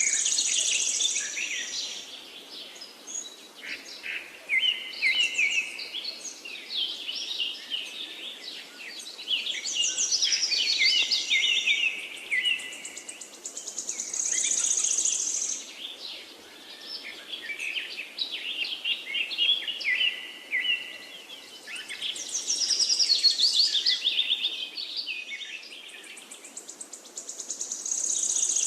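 Songbirds singing in overlapping chirping and whistled phrases. A high, buzzy trill comes back about every fourteen seconds: at the start, near the middle and near the end.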